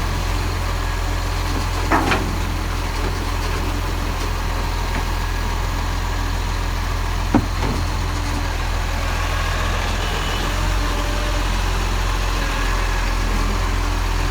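Garbage truck's engine running steadily, with a short knock about two seconds in and another about seven seconds in.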